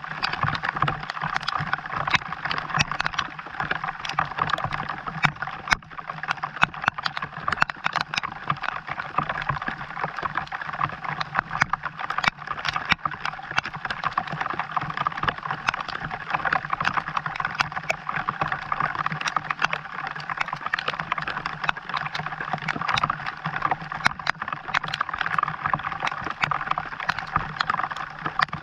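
Steady rain falling, thick with the sharp ticks of individual drops striking, over a steady low hum.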